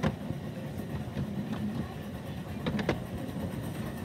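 Miniature railway train running on the line: a steady low rumble with scattered sharp clicks of the wheels, two of them close together about three-quarters of the way through.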